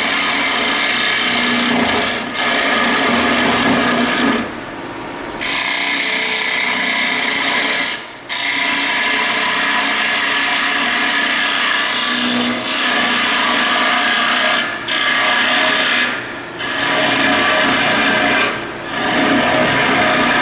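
Carbide cutter of a 90-degree detailer in a hollowing system cutting into a bowl spinning on a wood lathe: a steady, rough scraping hiss of wood being hollowed, cutting smoothly without chatter. It breaks off briefly about six times as the cutter leaves the wood.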